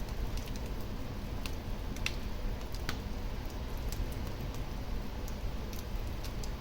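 Fire burning in a fireplace, crackling: scattered sharp pops and snaps, a few stronger ones about two to three seconds in, over a low steady rumble of the flames.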